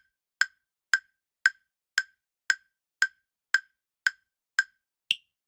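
Countdown timer sound effect: a run of eleven sharp, wood-block-like ticks, about two a second, the last tick higher in pitch.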